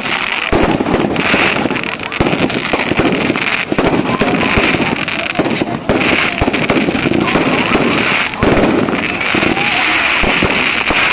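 Fireworks going off: a dense, continuous crackle of many rapid small pops.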